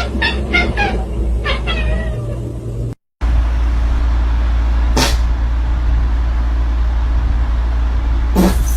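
A cat meowing in several short calls, one of them wavering in pitch. After a sudden cut comes a steady, noisy rumble with one brief sharp sound in the middle.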